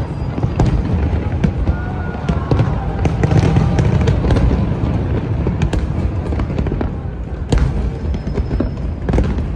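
Fireworks going off: a dense run of sharp bangs and crackles over a steady low rumble, with a louder bang about seven and a half seconds in.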